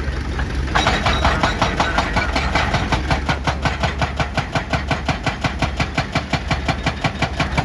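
Excavator-mounted hydraulic rock breaker hammering rock in a fast, even train of blows, about six to seven a second, over the steady hum of the excavator's diesel engine. The hammering starts about a second in and stops just before the end.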